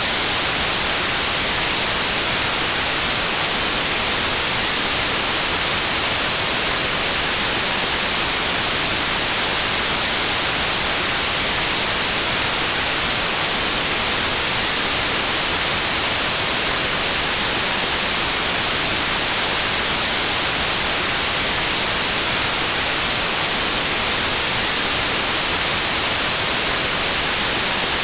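Steady white noise: an even, unchanging hiss, strongest in the high frequencies, with no rhythm or events.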